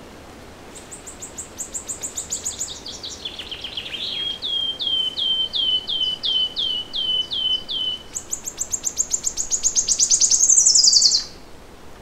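A songbird singing one long song: a fast high trill, then a run of evenly spaced downslurred notes, then another fast trill that climbs and ends in a falling flourish about eleven seconds in. Beneath it runs the steady rush of flowing water.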